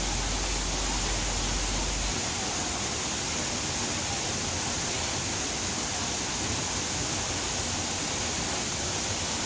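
Waterfall: falling water rushing as a steady, even noise.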